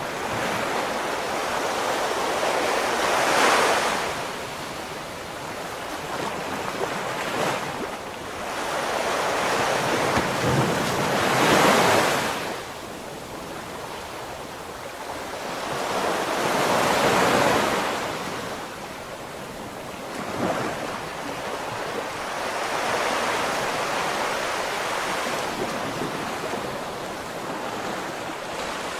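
Ocean waves breaking on the shore, the surf swelling and easing every few seconds, with a few larger breakers standing out.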